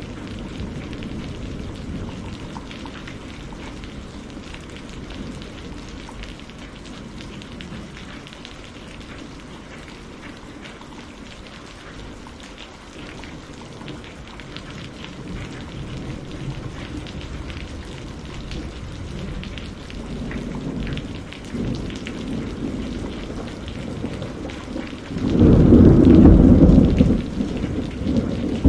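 Steady rain with low, rolling thunder that swells and fades; a loud thunderclap rumbles in near the end.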